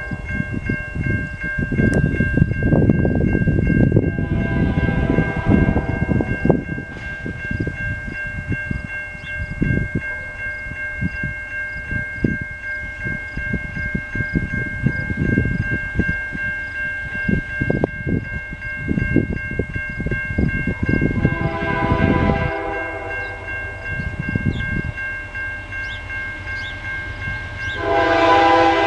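Diesel-electric locomotives of an intermodal freight train rumbling along the track, and the air horn sounding three times: about four seconds in, again about twenty-one seconds in, and once more near the end.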